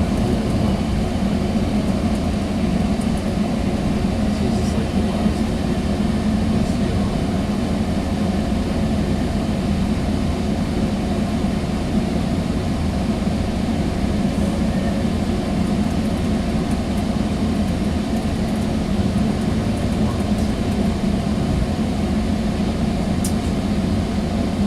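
Steady rumble inside a Sounder commuter rail coach as the train runs along the track, with no sharp changes.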